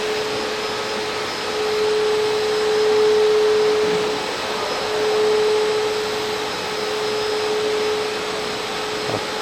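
A machine running with a steady rushing noise and a steady hum, swelling slightly in loudness twice.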